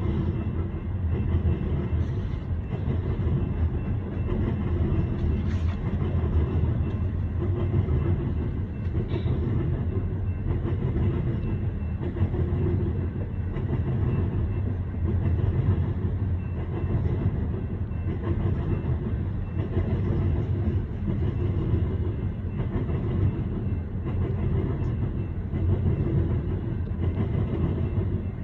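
Loaded coal train's hopper cars rolling past, a steady rumble of steel wheels on rail.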